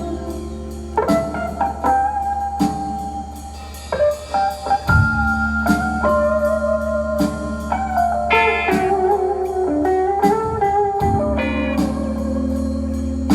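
Band playing a blues-style instrumental: guitar with held, sliding notes over bass and a regular drum beat.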